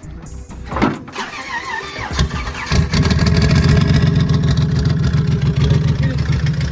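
Turbocharged Dodge Dakota engine starting up. It catches a little under three seconds in, then runs loud and steady.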